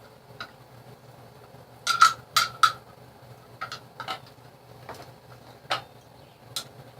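Metal objects clinking and clanking as they are handled, with three sharp clinks about two seconds in and scattered lighter ones after; a faint steady low hum runs underneath.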